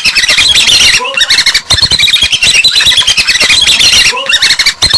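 Birds chattering and squawking: a dense run of rapid, short high-pitched calls with brief breaks about a second in and near the end.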